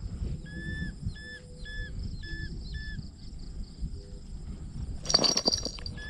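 A bird calls a series of five short notes at one steady pitch, about half a second apart. About five seconds in comes a sudden loud rustle.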